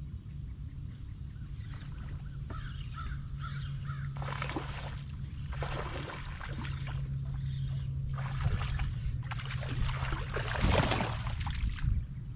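Raspy bird calls: a quick run of short notes, then four longer, louder calls, the last the loudest, over a steady low hum.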